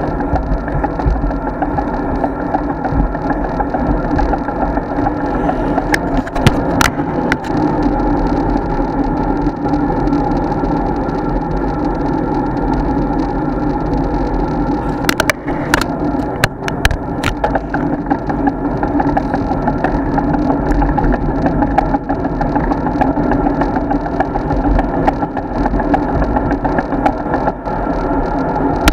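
Steady rushing road and wind noise from a road bike being ridden, picked up by a bike-mounted action camera, with a few sharp clicks or rattles about six seconds in and again around fifteen to seventeen seconds in.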